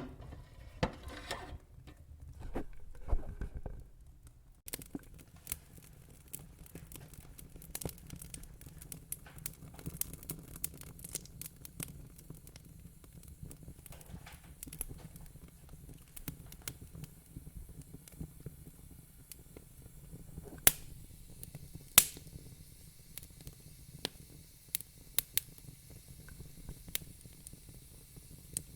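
Wood fire crackling: scattered sharp pops and snaps over a low steady rumble, with two louder pops a second apart late on.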